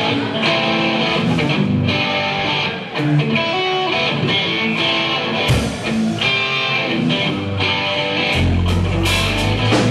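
Live rock band starting a song with electric guitar playing notes and chords; a heavy low end comes in about eight seconds in as the rest of the band joins.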